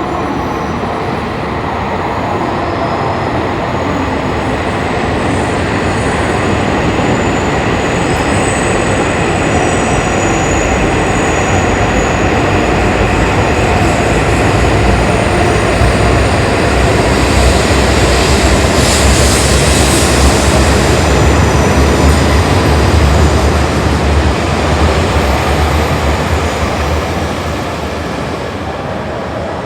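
Shinkansen bullet train running alongside the platform: a steady rushing rumble that builds, peaks about 20 seconds in with a hiss added on top, then eases near the end.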